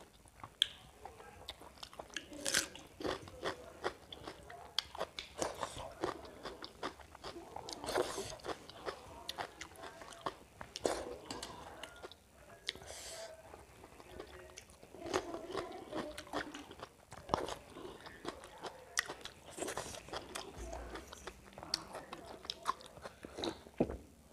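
Close-up chewing and mouth sounds of a person eating pakhala (water-soaked rice) with egg bhujia and greens by hand, with irregular sharp clicks throughout.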